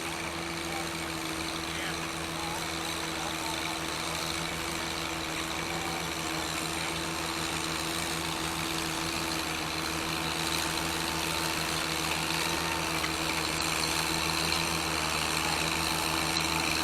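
Tractor engine idling steadily, growing a little louder in the second half.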